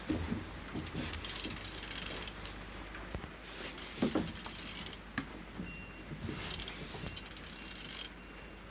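B16DTH engine being turned over by hand, giving irregular metallic clicks, rattles and a few knocks from the tool and the moving parts. The engine turns freely, not seized.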